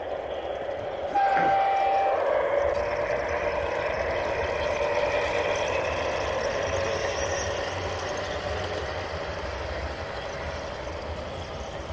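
Model garden railway train running along its track, a steady running sound that gets louder about a second in and then slowly fades as it moves away. A short, steady high tone sounds for about a second as it gets louder.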